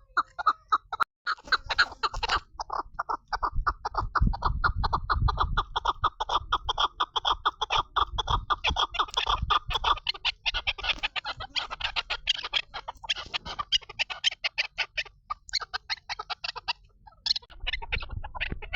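Female chukar partridge (chakor) calling: a long run of short clucking notes, a few a second at first, then quickening into a fast, rattling series that thins out near the end.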